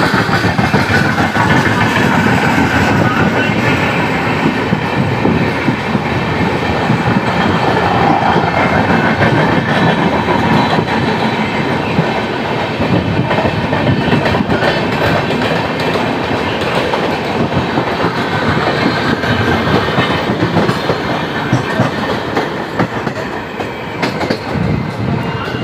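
Passenger trains running at speed on parallel tracks, wheels clattering rhythmically over the rail joints. Steady and loud, easing slightly near the end.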